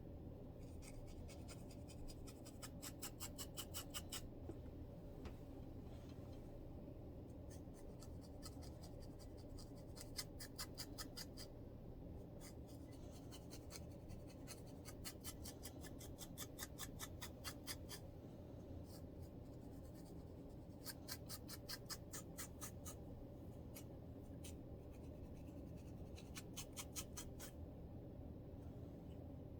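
Close-up scratching of a scalp with dandruff, in runs of quick, several-a-second scraping strokes with short pauses between them, over a faint steady low hum.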